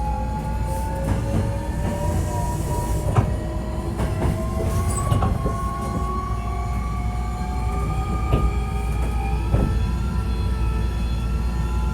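Interior running sound of a Hankyu 1300 series electric train pulling away: the traction motor whine rises slowly and steadily in pitch over a constant low rumble, with a few sharp clicks from the wheels over rail joints. This car is known for an unusual running noise.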